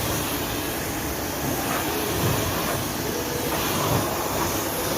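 Power sander running steadily on a car body panel, a continuous whirring hiss.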